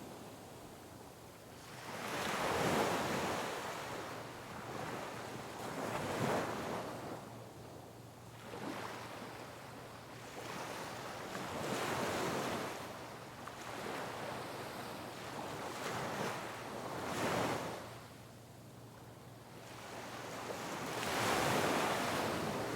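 Sea waves breaking on rocks, one crash swelling up after another every few seconds with washing lulls in between, a little wind noise on the microphone.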